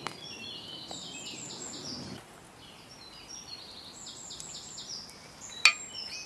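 A songbird singing in two runs of quick repeated high notes, over a low crackle of campfire for the first two seconds. A single sharp tap near the end.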